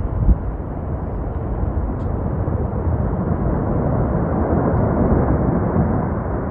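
Snow avalanche coming down a mountainside: a steady low rumble that grows a little louder, with a short thump near the start.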